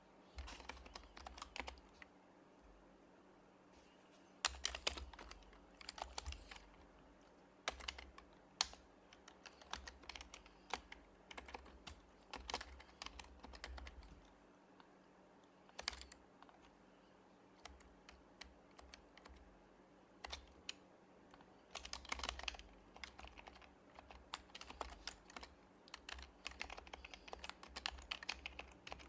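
Typing on an HHKB Professional HYBRID Type-S keyboard with silenced Topre switches: runs of soft, quick keystrokes broken by short pauses, with sparser taps in the middle.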